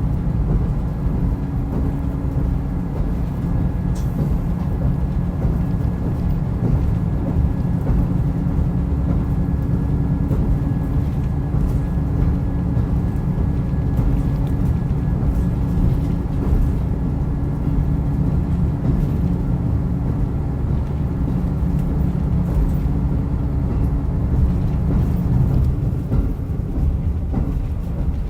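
Diesel railcar running along the line: a steady low rumble with a humming tone that fades about 26 seconds in, and a few faint ticks.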